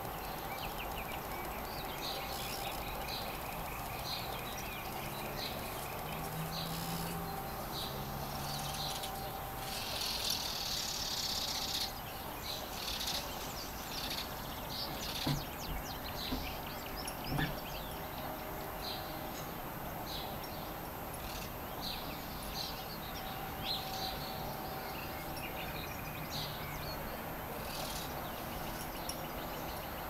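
Songbirds singing and chirping, many short calls over steady outdoor background noise, with a denser burst of song about a third of the way in. Two brief knocks sound a little past the middle.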